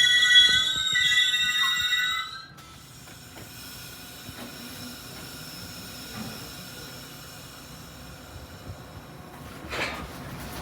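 Metra commuter train's steel wheels squealing in several high steady tones, which cut off suddenly about two and a half seconds in. A much quieter steady hiss follows.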